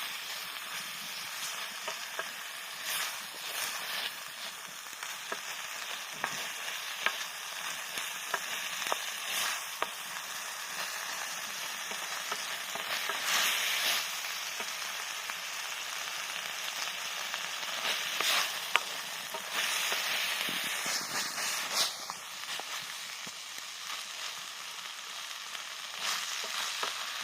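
Food frying and sizzling in a Chinese wok over a wood fire, with frequent short clicks and scrapes of stirring. The sizzle surges louder twice, about a third of the way in and again about three quarters of the way through.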